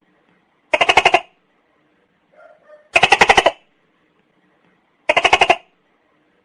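Tokay gecko calling: three short, rattling calls about two seconds apart, each a quick run of clicks lasting about half a second.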